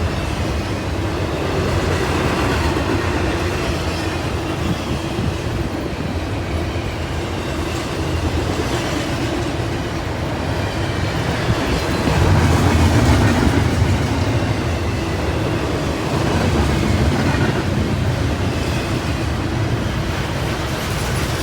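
CSX intermodal freight train passing close by: steady rumble of cars, with wheels clattering over rail joints and a few louder swells as cars go past.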